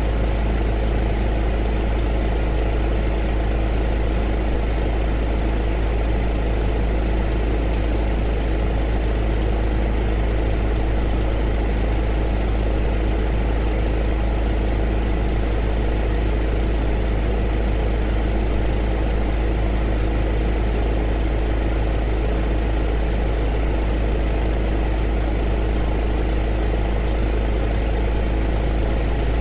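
Heater running steadily: an even rushing noise over a deep, constant hum, with a few faint steady tones, and no change throughout.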